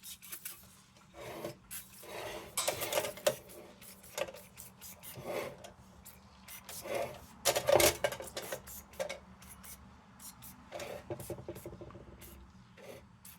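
A cloth rag rubbing CLP onto a metal lantern in irregular wiping strokes, with a few light clicks from handling the lantern.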